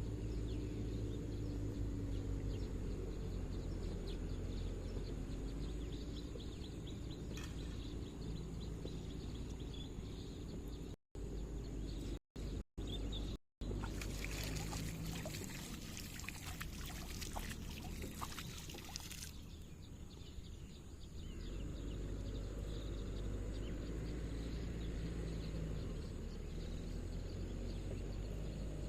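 Outdoor ambience with a steady low rumble. A burst of splashing, pouring water lasts for about five seconds past the middle. Just before the splashing, the sound cuts out briefly four times.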